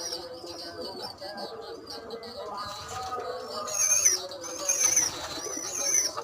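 Domestic pigeons cooing, with high, thin, wavering chirps coming in over the second half, which are the loudest part.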